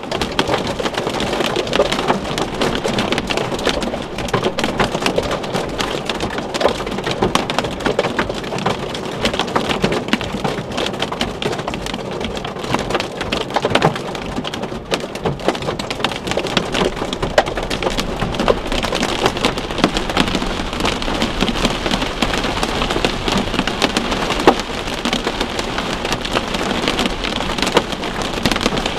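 Heavy rain pelting the car's roof and windshield, heard from inside the car: a dense, steady patter of hard drop impacts.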